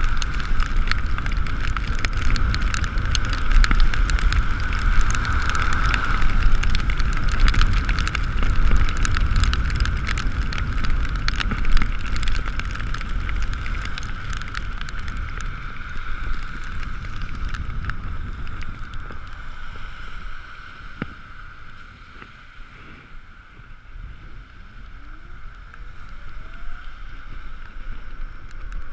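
Ekoway ML5000 electric vehicle on the move in the rain: a steady high motor whine over wind and wet-road noise. About 18 seconds in the noise eases as it slows, then a rising whine near the end as it speeds up again.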